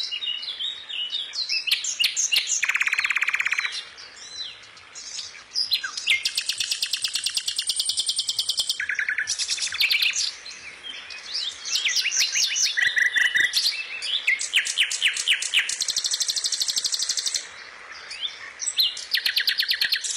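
Songbirds singing: overlapping fast trills and high chirps in runs of a second or two.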